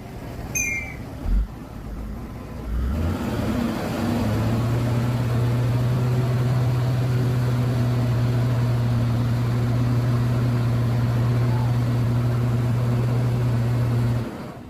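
Mitsubishi Fuso heavy truck's diesel engine revving up and then held at high, steady revs for about ten seconds as the stuck truck strains to move, before the throttle is suddenly let off near the end.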